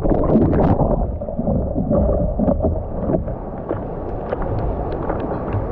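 Seawater sloshing and splashing around a surfboard in the surf, with wind rumbling on the microphone and a few small splashes.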